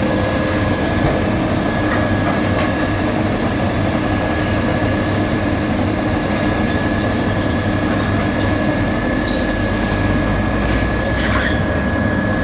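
Heavy road-construction machinery running steadily at work, a loud continuous engine rumble with a constant high whine over it. A few faint clicks come about two-thirds of the way through.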